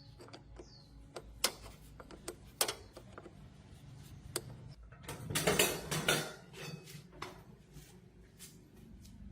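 Metal parts and tools being handled on a workbench: scattered sharp clinks and knocks, with a louder rattling, scraping stretch about five seconds in.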